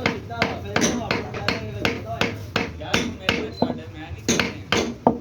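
Repeated hammer blows at a steady pace of about three a second, each strike ringing briefly.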